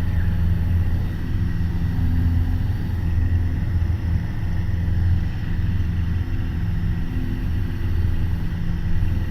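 Piper PA-28 Warrior's four-cylinder Lycoming engine and propeller running steadily at climb power, a constant low drone.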